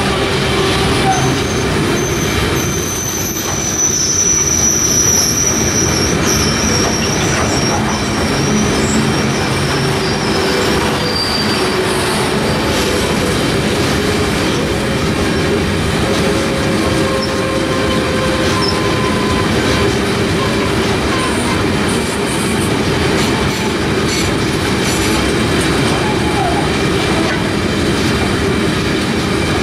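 Loaded ore hopper wagons rolling past steadily on the rails. A high squeal sounds from about one to eight seconds in.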